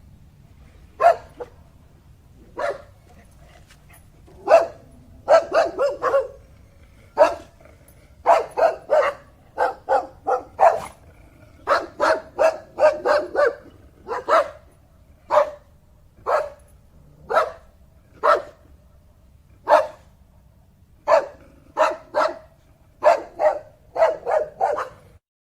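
A dog barking again and again, some single barks and some quick runs of three to five, over a faint steady low hum that stops near the end.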